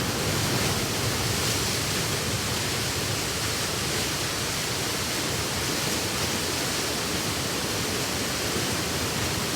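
Waterfall about ten metres high, water rushing and splashing steadily.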